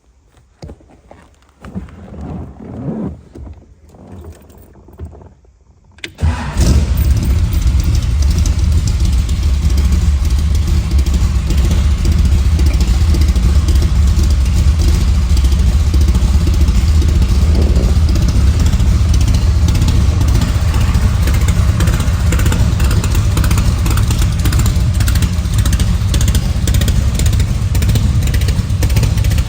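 Ultimate Classic Cars GT 427's V8 cold-starting: about six seconds of quieter, uneven cranking, then the engine catches with a sudden jump in loudness and runs on at a loud, steady, deep idle.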